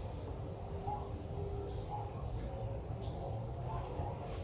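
Small birds chirping: short high chirps repeating every half second or so, over a steady low rumble.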